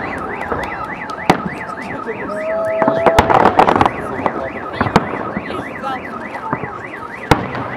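Fireworks salute shells bursting with sharp bangs every couple of seconds, with a dense crackling burst about three seconds in. Throughout, an electronic alarm wails, sweeping up and down in pitch about three times a second.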